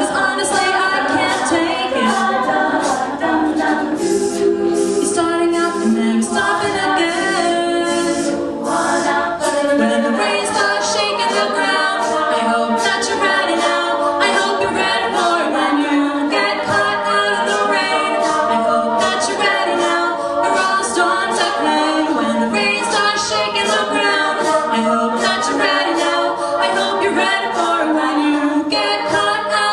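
Female a cappella group singing in harmony, several voice parts at once, over a steady beat.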